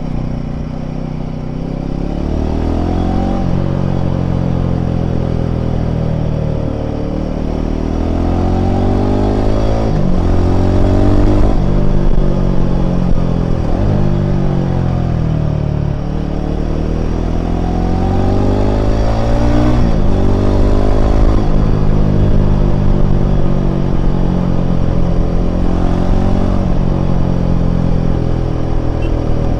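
Royal Enfield Himalayan 450's single-cylinder engine running under way. Its pitch climbs and then drops sharply again and again, about half a dozen times, as the throttle opens and closes.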